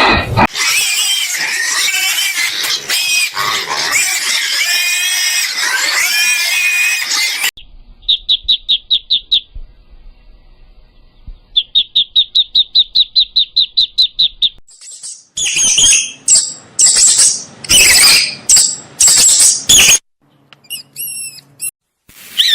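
A run of different animal calls one after another: first a dense, noisy stretch of many wavering cries, then two runs of rapid, evenly repeated high pulses, then loud, high cries and a few short falling chirps near the end.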